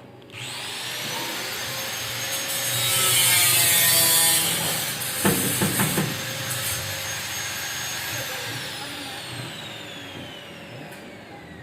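A high-speed electric power tool, such as a grinder or disc cutter, spins up with a quickly rising whine and runs steadily while cutting or grinding. The rough noise is loudest three to four seconds in, with a few sharp knocks around five to six seconds. After the trigger is released, the tool winds down with a slowly falling whine.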